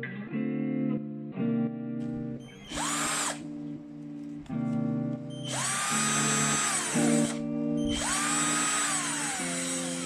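Mitsushi 12V cordless drill running unloaded in three trigger pulls: a short blip about three seconds in, then two runs of about two seconds each. Each time the motor whine rises quickly, holds steady and falls away as the trigger is released. Background music plays throughout.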